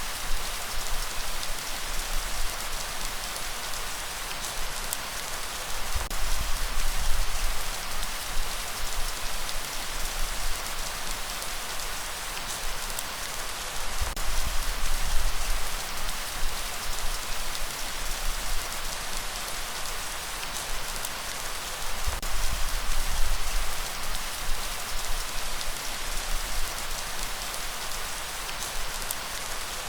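Steady light rain falling, with a low rumble that swells and fades about every eight seconds.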